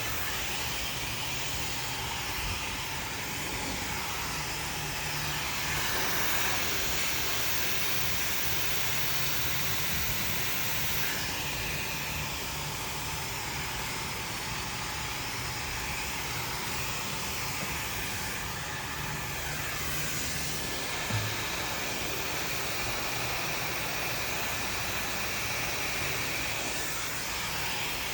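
Handheld hair dryer blowing steadily, its airflow shifting a little as it is moved over the hair, with one brief knock about two-thirds of the way through.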